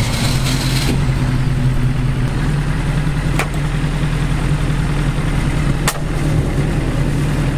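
BAC Mono's engine running at a steady idle just after starting, with two sharp clicks about three and a half and six seconds in.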